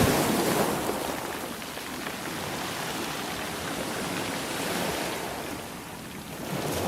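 Sea waves washing on a shore: a steady rush of surf that swells loudest at the start, eases off, and builds again with the next wave near the end.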